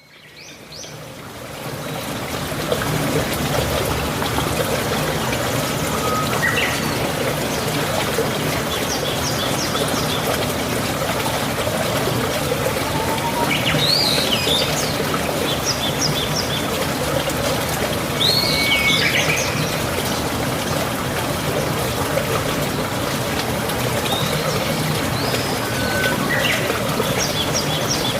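Steady trickling, running water of a stream, fading in over the first two seconds, with songbirds chirping now and then above it.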